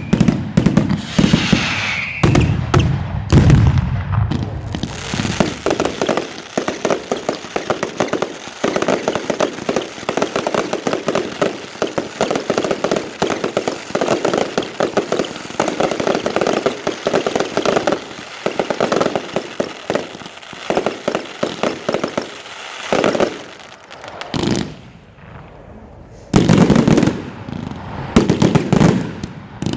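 Professional fireworks display: a dense, rapid run of bangs and crackling shell bursts, with heavier, deeper bangs in the first few seconds. The firing eases off for a few seconds a little past two-thirds of the way through, then loud bursts come again.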